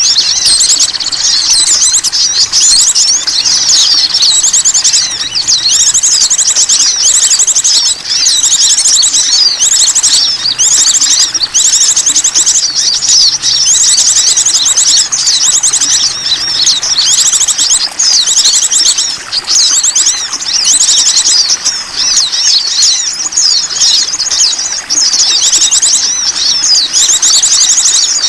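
Bird-lure (pikat) recording: a dense, unbroken chorus of many small birds' high chirps and fast trills, played loud to draw in small wild birds.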